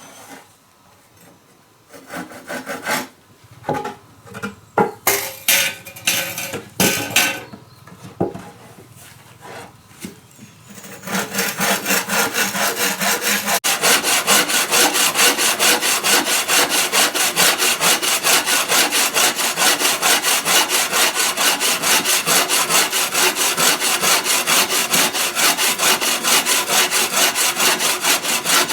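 Wood being handled with scattered knocks and scrapes, then a hand saw cutting through wood in fast, even back-and-forth strokes from about eleven seconds in.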